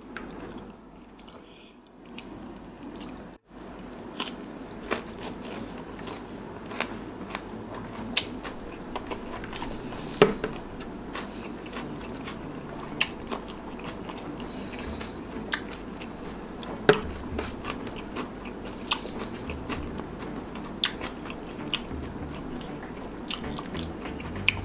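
Close-up chewing of a mouthful of rice and pekasam, with sharp crunchy clicks about every second and a few louder crunches.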